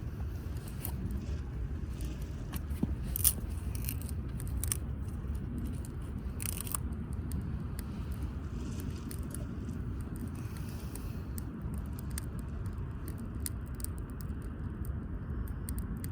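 A wood fire burning in a wood grill: irregular crackles and snaps over a steady low rumble, with a sharper pop about three seconds in.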